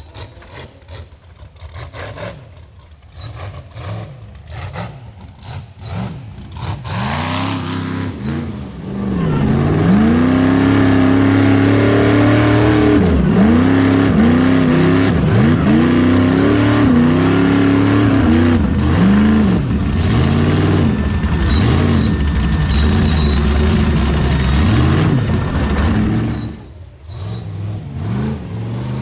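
Rock bouncer buggy engine revving hard: short throttle blips for the first several seconds, then a long stretch near full throttle with the revs swinging up and down again and again as it fights its way up a slippery climb. The engine drops off briefly near the end, then revs up again.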